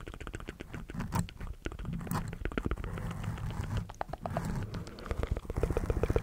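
Close-miked ASMR mouth sounds: rapid wet clicking and crackling from the lips and tongue, in quick irregular runs.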